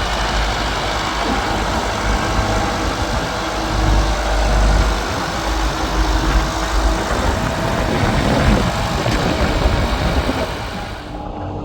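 Tractor engine running with a heavy, dense rumble. Near the end the sound turns quieter and duller.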